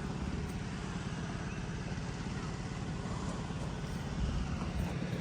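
A vehicle's engine running steadily at a low, even hum while riding along.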